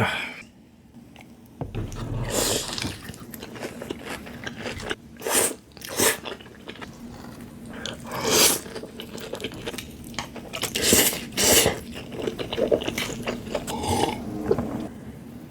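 Close-miked eating: a person biting and chewing food, with about six louder, sharp bites or crunches scattered through.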